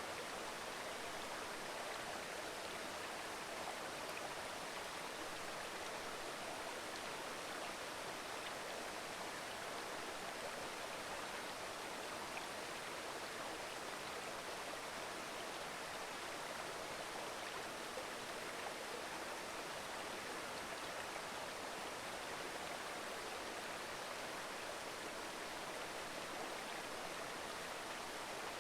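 Mountain stream babbling over rocks: a steady, even rush of flowing water.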